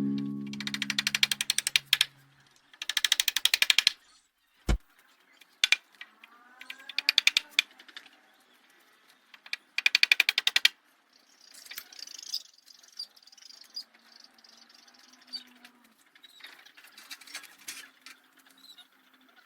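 Short bursts of very rapid clicking or rattling, four in all, with a single sharp knock between the first two; fainter high chirping follows in the second half.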